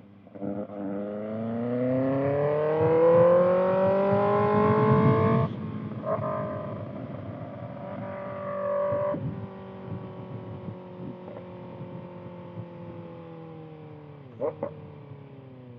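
Kawasaki ZX-6R 636 inline-four revving through a Voodoo slip-on exhaust, loud. It climbs in pitch for about five seconds, cuts off sharply at the shift, pulls again briefly, then settles into a lower, slowly falling note, with a quick throttle blip near the end.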